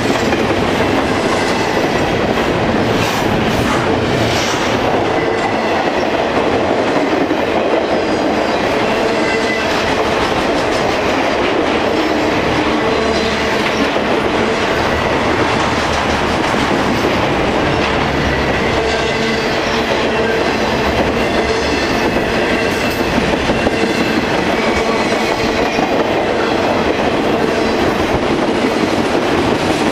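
Double-stack intermodal freight train rolling steadily past at speed: a continuous rumble of steel wheels on rail with rhythmic clickety-clack over the rail joints.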